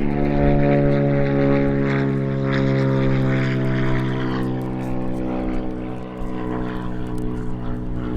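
A steady droning hum with evenly stacked overtones, its pitch sagging slightly over several seconds.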